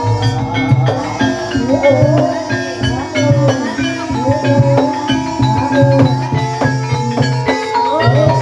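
Gamelan music accompanying an ebeg horse dance: struck tuned percussion ringing over a busy low drum rhythm, with a wavering melodic line that rises and falls about once a second.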